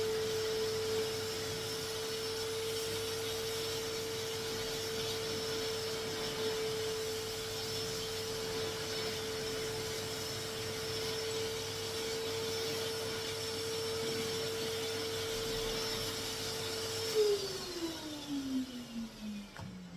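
Vacuum cleaner motor running with a steady whine. About three-quarters of the way in it is switched off with a click, and the whine falls steadily in pitch as the motor spins down.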